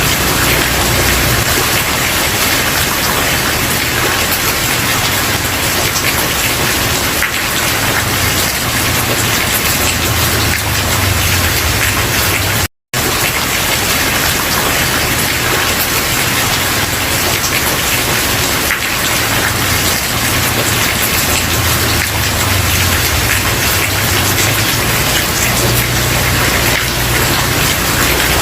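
Steady rain, an even dense hiss, with a low rumble underneath that swells and fades. The sound cuts out completely for a split second a little before halfway through.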